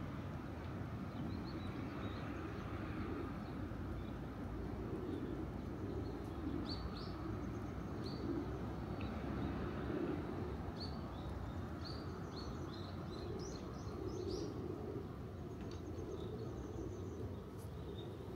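Small birds chirping: many short, high chirps scattered throughout, over a steady low background rumble.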